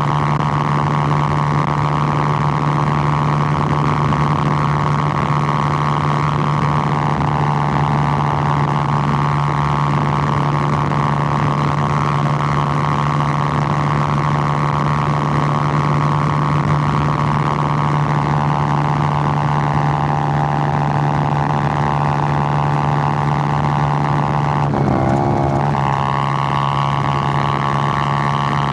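Suzuki GN125's single-cylinder four-stroke engine running steadily under way, with a brief break in the engine note about three seconds before the end before it settles back to a steady run.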